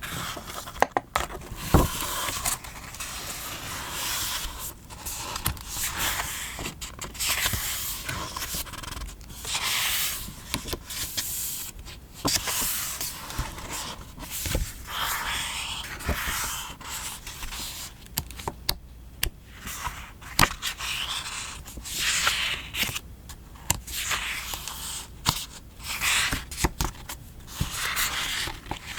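Paper and stickers handled close to the microphone: repeated scraping and rubbing strokes of paper on paper, with a few sharp small clicks.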